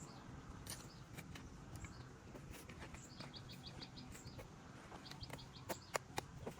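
A small bird chirping: a quick run of about six high notes about three seconds in, and a few more a little later, over quiet rural background noise. Several sharp knocks near the end are the loudest sounds.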